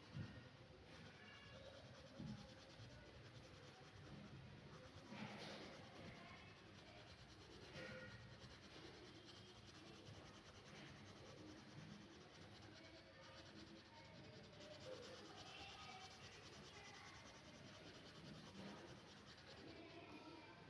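Faint scratching of a pen drawing on paper, with a few sharper strokes.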